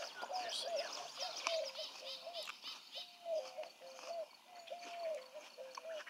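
Birds calling: scattered high chirps over a continuous string of low, level notes that step up and down in pitch.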